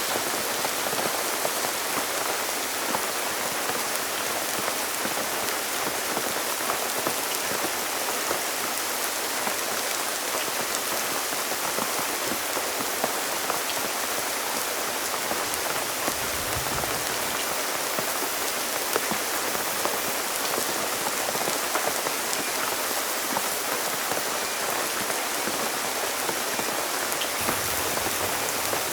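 Heavy rain falling steadily, a dense hiss of countless drops striking a surface. A short low rumble comes just past the middle.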